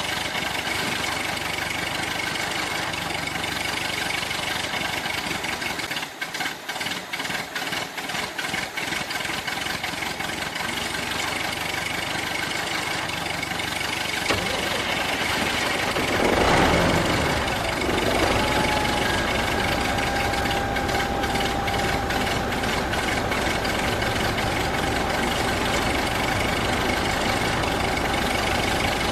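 A motor running steadily. About two-thirds of the way through its pitch briefly dips and climbs back, and a steady whine sits over it from then on.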